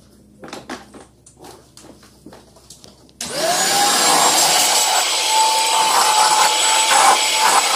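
A few light knocks, then about three seconds in a commercial vacuum cleaner switches on: its motor whine rises quickly to a steady pitch with a high whistle above it and a loud rush of air.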